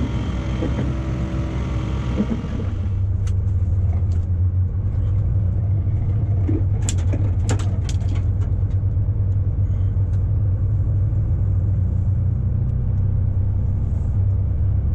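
Truck engine running steadily, heard from the cab: a deep steady rumble. Several higher steady tones stop about three seconds in, and a scatter of sharp clicks and knocks follows over the next several seconds.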